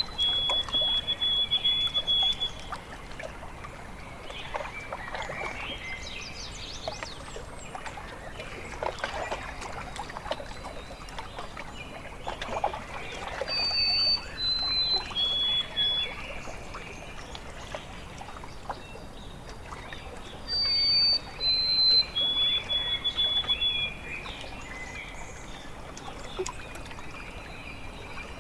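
A songbird repeating a clear whistled phrase of three notes stepping down in pitch, the last held longest. The phrase comes three times over lake water lapping and trickling at the shore.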